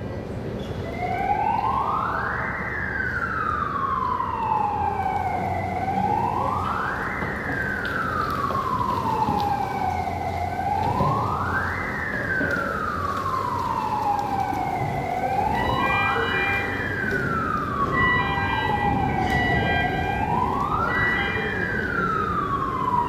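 A siren wailing in slow, even cycles, each one rising quickly and falling away more slowly, about five times over, with a steady low machinery rumble underneath.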